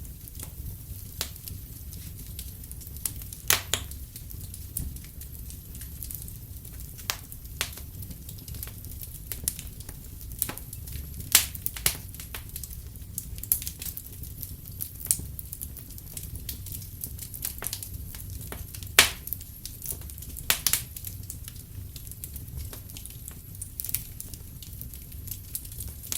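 Wood fire crackling in a fireplace: irregular sharp pops, a few louder ones, over a low steady rumble.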